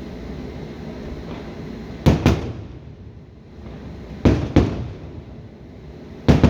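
Aerial fireworks shells bursting: three double bangs, about two seconds apart, over a steady low rumble.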